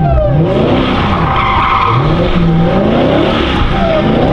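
A car engine revving up and down repeatedly, its pitch rising and falling every second or so, while the tires squeal and screech under wheelspin.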